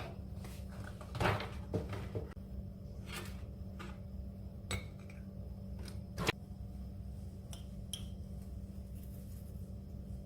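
Scattered light clicks, clinks and knocks of dishes and utensils being handled, over a steady low hum.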